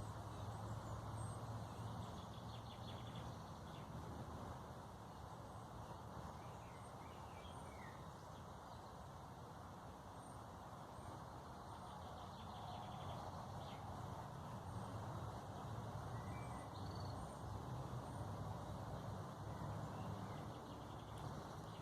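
Scattered faint bird chirps over a steady low background rumble.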